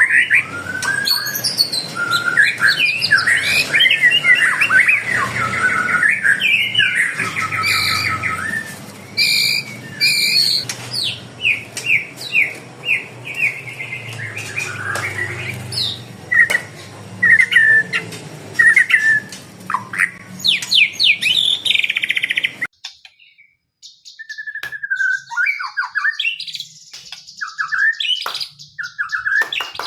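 Several caged songbirds singing and chirping in quick, varied whistled phrases. A low background hum cuts out abruptly about three quarters of the way through, and the calls carry on more sparsely after it.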